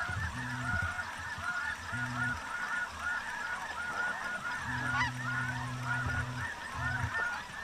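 A large flock of snow geese calling continuously, many short, high, yelping honks overlapping. A low steady hum starts and stops several times underneath, and there is a single sharp click about five seconds in.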